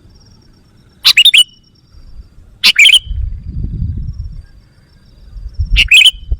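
Sooty-headed bulbul (kutilang) giving three short, loud, bubbly call phrases: one about a second in, one near the middle and one near the end. A low rumble runs between the calls.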